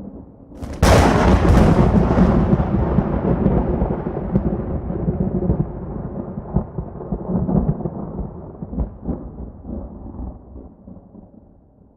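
Thunder: a sudden sharp crack a little under a second in, then a long rolling rumble with scattered crackles that slowly fades out over about ten seconds.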